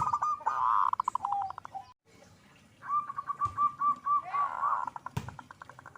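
Zebra dove (perkutut) singing: two phrases of cooing notes, each ending in a rapid stuttering trill, with a short gap between them. A sharp click sounds near the end.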